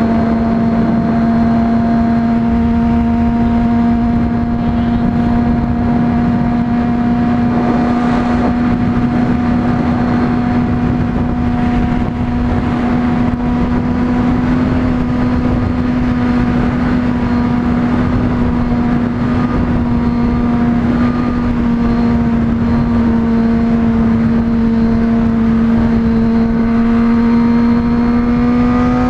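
Honda CBR600RR sport bike's inline-four engine running at a steady cruising speed under a loud rush of wind noise. The engine pitch holds steady and climbs a little near the end.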